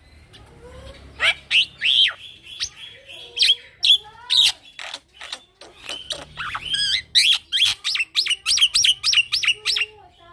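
Young male black-winged myna (jalak putih) singing a continuous rolling song of chirps, whistles and harsh notes, rising into a fast run of repeated notes near the end.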